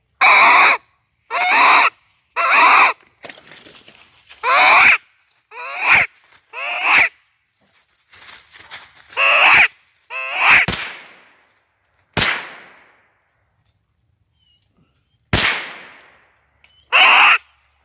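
Redbone coonhound barking treed: loud, separate chop barks about every one to two seconds, with short pauses between.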